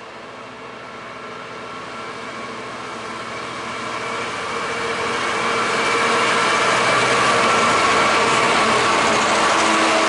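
A train approaching along the line, growing steadily louder for about six seconds, then holding loud and steady as it runs close by, with a few steady tones over the rumble.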